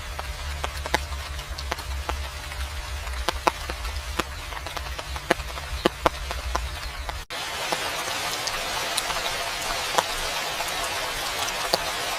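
Rain falling steadily, with many individual drops tapping sharply, over a low rumble. About seven seconds in, the sound cuts abruptly to a denser, hissier downpour and the rumble drops out.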